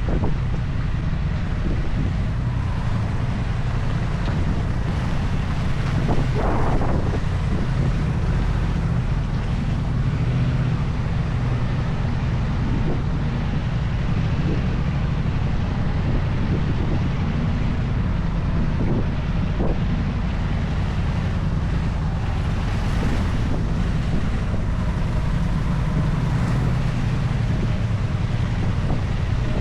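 Steady wind noise buffeting the microphone: a continuous low rumble with an even level.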